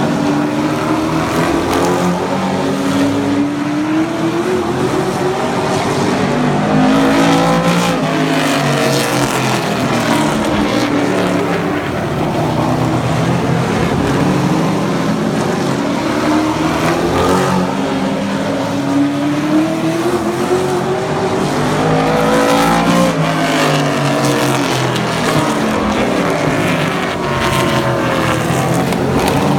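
Several super truck race trucks running laps on a short oval, their engines revving up and falling back as they pass, over and over.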